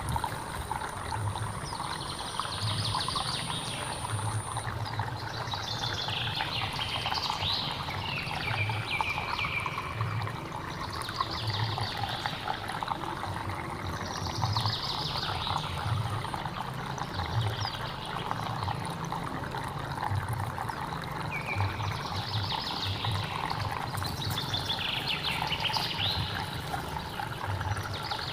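Hill stream flowing and trickling steadily with an uneven low gurgle, while a bird sings short repeated phrases every couple of seconds.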